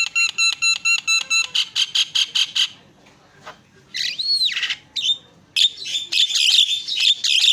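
Javan myna singing: a fast run of sharp repeated notes, about six a second for the first two and a half seconds, then a single rising-and-falling whistle, then a dense burst of chattering notes near the end.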